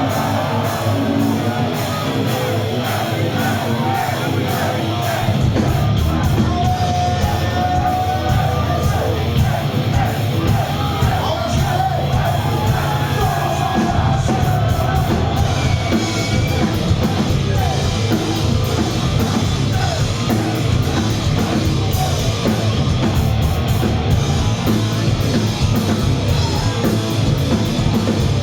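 A live rock band plays with guitars, drums and sung, shouted vocals. The bass and drums come in heavily about five seconds in.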